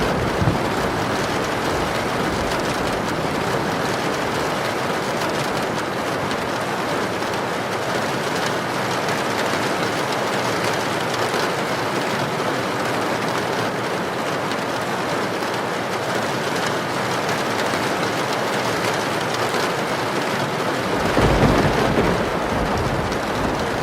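Heavy rain falling as a dense, steady hiss. Near the end a deep rumble swells briefly and fades.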